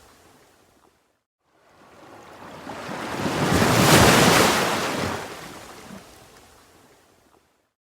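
A single ocean wave washing in as surf: after a brief hush about a second in, the sound of rushing water swells, peaks near the middle and slowly fades away.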